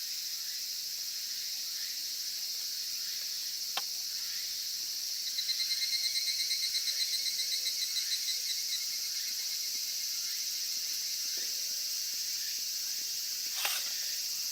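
Steady, high-pitched chorus of insects, with a rapid pulsed trill standing out for about three seconds in the middle and a couple of faint clicks.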